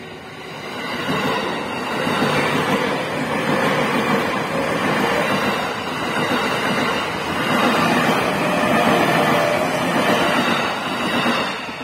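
JR 209-series electric commuter train passing close by, its wheels and bogies rumbling steadily on the rails as the cars go past. The noise builds over the first second or so, holds, and eases off near the end.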